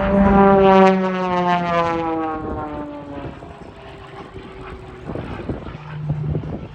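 Propeller airplane flying a low, loud pass. Its engine-and-propeller note drops in pitch as it goes by and fades away over about three seconds.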